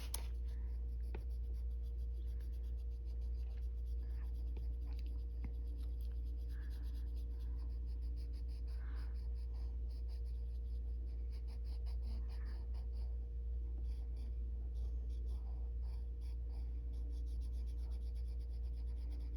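Arteza coloured pencil scratching on a colouring-book page in many short, light shading strokes, feathering the colour out, over a steady low hum.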